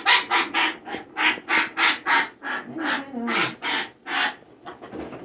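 Young African grey parrot giving a fast series of harsh squawks, about three a second, that stops about four seconds in: a nervous bird protesting at being handled in a towel.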